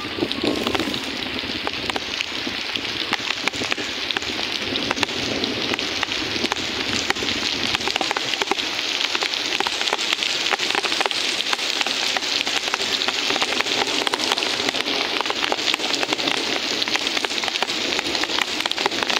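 Heavy rain falling steadily: a dense, even hiss full of small drop impacts.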